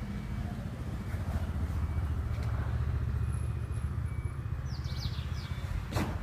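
Outdoor ambience: a steady low rumble, with a quick run of four or five short bird chirps about five seconds in and a single click near the end.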